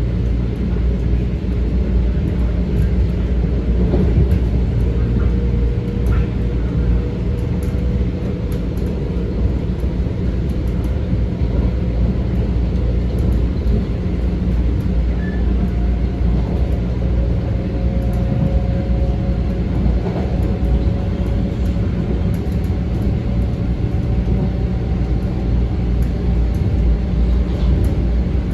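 Metro-North M7 electric commuter train heard from inside the car while running: a steady low rumble of wheels on rail, with a faint motor whine above it.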